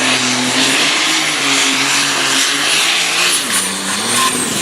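Competition pulling tractor's engine running hard at high revs, a steady pitched drone over loud rushing noise. About three and a half seconds in the pitch drops, then climbs back near the end.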